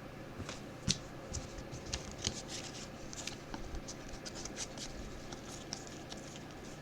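Faint, irregular ticks and scrapes of trading cards being slid and flipped through by hand, one card after another.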